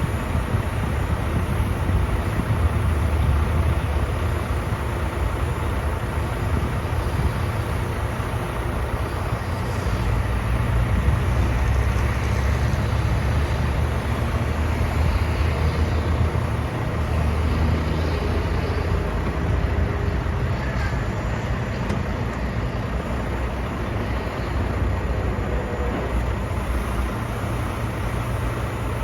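Volvo D13 diesel engine of a heavy roll-off truck running, a steady low rumble that swells and eases slightly without stopping.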